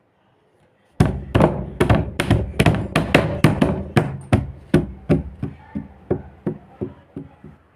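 A small child banging on something hard over and over, about three to four sharp strikes a second, starting about a second in and growing fainter and more scattered toward the end.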